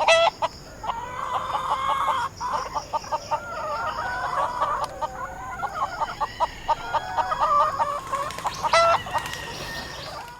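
Chickens clucking in a continuous chatter of short, overlapping calls, with a loud, sharp call right at the start and another near the end; the sound cuts off suddenly at the end.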